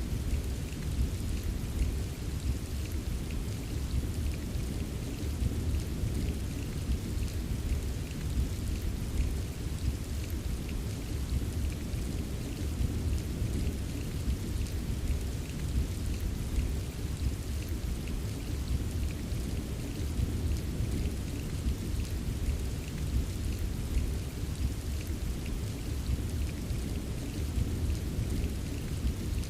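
Steady rain ambience: dense pattering of drops over a continuous low rumble, unchanging throughout.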